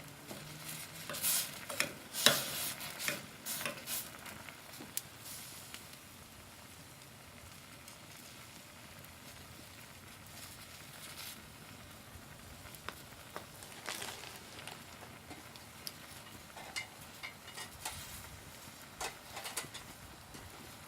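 Ramyun cooking in a pot over a wood fire: a faint steady sizzling and simmering with sharp clicks and knocks, a cluster of them in the first few seconds, the loudest about two seconds in, and scattered ones again in the second half.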